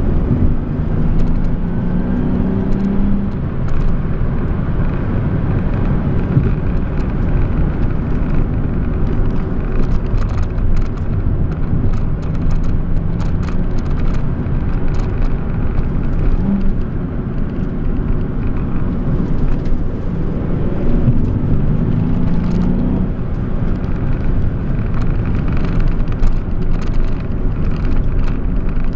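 Nissan 370Z's 3.7-litre V6 and road noise heard from inside the cabin while driving in gear on a winding road. The engine note climbs as the car accelerates about a second in and again about three-quarters of the way through.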